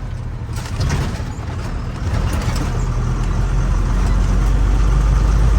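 Truck engine running under way, a steady low drone with road noise and a few knocks and rattles, getting louder over the last few seconds.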